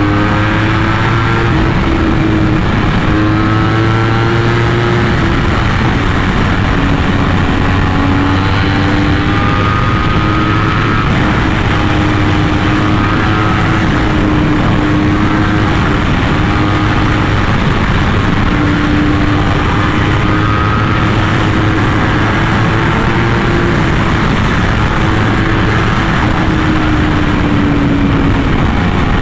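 Yamaha R1M's crossplane inline-four through an SC Project aftermarket exhaust, running under steady throttle while riding, its pitch drifting gently up and down with no sharp revs.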